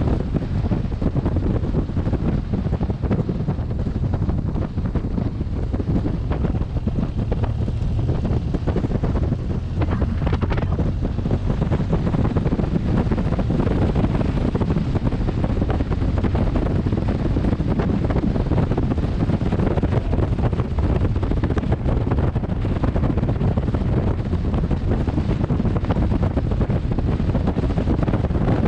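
Wind noise battering a helmet-mounted camera's microphone on a moving motorcycle: a steady, unbroken rush, heaviest in the low end.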